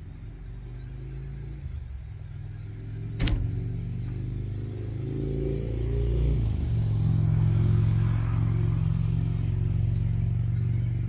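Supercharged four-cylinder engine of a 1999 Mercedes-Benz C230 Kompressor running, with a sharp click about three seconds in; the revs then rise and hold higher, getting louder. The car has a fault that flashes its check engine light.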